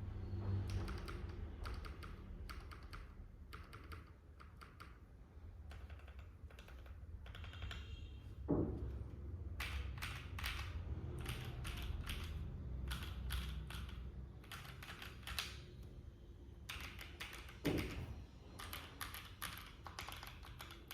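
Typing on a Keydous NJ80 mechanical keyboard with lubed and filmed Boba U4T 62g tactile switches on a brass plate, under Cherry-profile (CMK) keycaps. The keystrokes come in quick runs with short pauses, and twice, once midway and once near the end, a single heavier, deeper stroke stands out.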